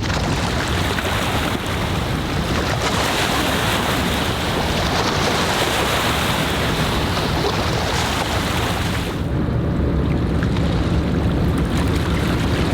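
Harbour waterfront ambience: a steady low rumble under a broad hiss of water and wind on the microphone. The hiss eases about nine seconds in.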